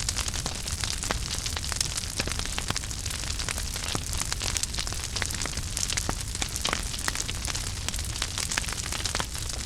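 Wood fire burning in a fireplace, with a steady low rumble and hiss and frequent sharp crackles and pops throughout.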